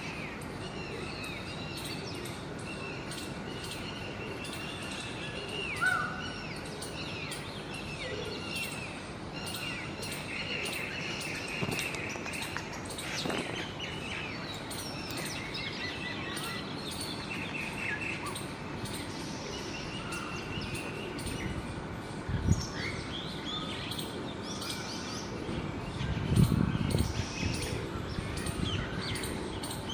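Small birds chirping and calling over steady outdoor background noise, with a few low thumps in the second half.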